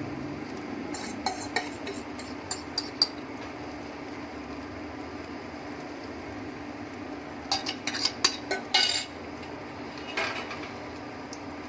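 A spoon or spatula tapping and scraping against a pan in short clusters of clicks while batter is spread out in it, over a steady low hum.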